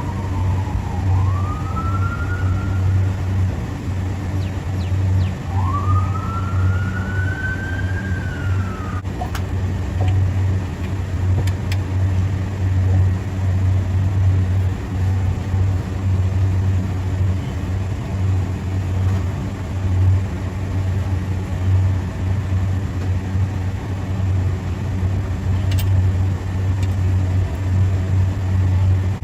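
A steady, loud, low machine drone. Over it, for the first nine seconds or so, a siren wails, falling and then rising twice in pitch.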